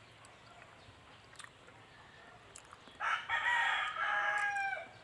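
A rooster crows once, a single call of nearly two seconds that starts about three seconds in.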